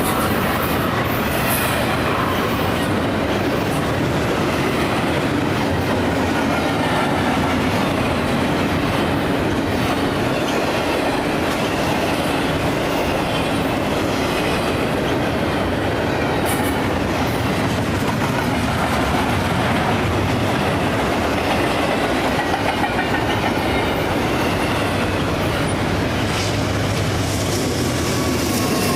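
A train rolling past at steady speed: continuous rumble and clatter of wheels over the rails, with a faint wheel squeal.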